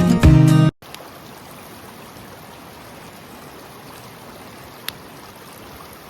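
Acoustic guitar music stops abruptly under a second in, giving way to the steady rush of a flowing river. A single sharp click sounds about five seconds in.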